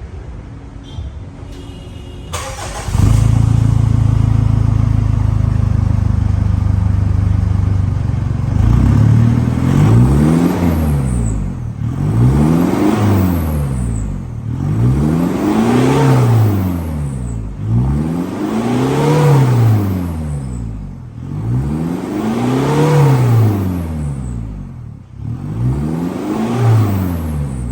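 Toyota Innova with a full aftermarket exhaust: the engine comes on suddenly about two and a half seconds in and idles steadily. From about eight seconds on it is revved six times, each rev rising and falling in pitch, about one every three seconds.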